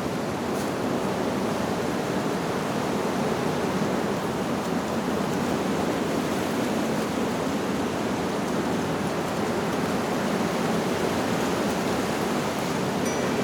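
Steady wind blowing through leaves, an even rushing hiss. A faint, brief wind-chime tone sounds near the end.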